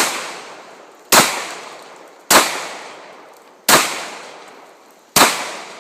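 Ruger SR9C 9 mm compact pistol fired five times at an even pace, about one shot every second and a half, each shot trailing off in an echo.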